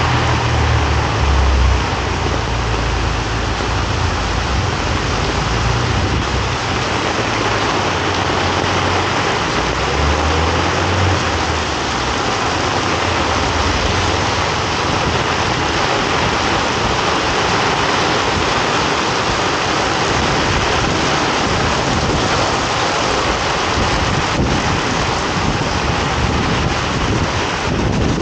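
Heavy rain falling on a wet street: a dense, steady hiss of rain on pavement and puddles. A low rumble is heard in the first couple of seconds and again about ten seconds in.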